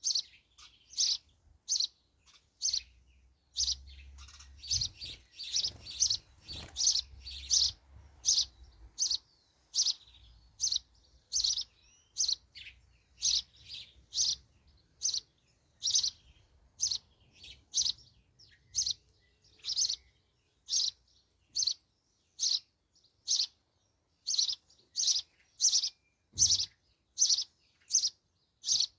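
Nestling birds in a nest calling with short, high chirps repeated evenly, about one and a half a second, the chicks probably calling for their mother to bring food.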